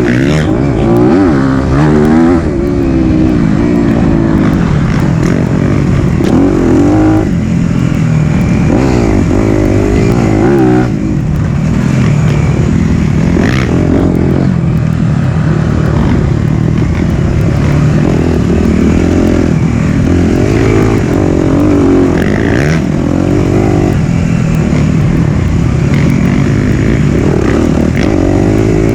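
Single-cylinder four-stroke dirt bike engine on a trail ride, its pitch rising and falling again and again as the rider throttles on and off.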